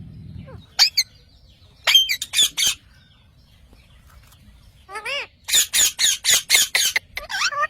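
Parrot squawking in short, harsh, repeated calls: a couple about a second in, a quick run of four around two seconds, then after a lull a fast, loud run of calls near the end.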